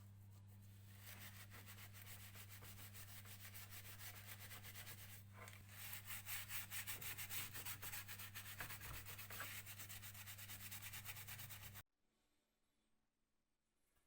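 Sanding: rapid, even rubbing strokes over a steady low hum, which stop abruptly about twelve seconds in.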